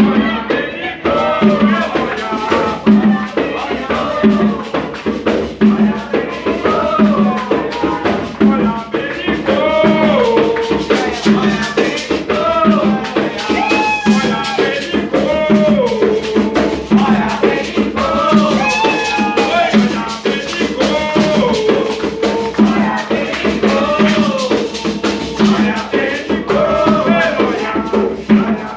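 Group of voices singing a chant, with a steady drum beat about every three quarters of a second and a shaker rattling along.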